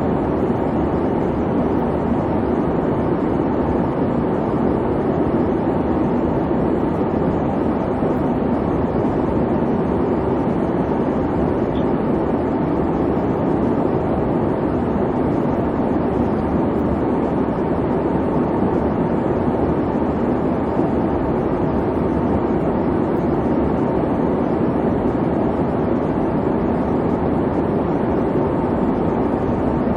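Airplane cabin noise: a steady, even low rumble of the engines.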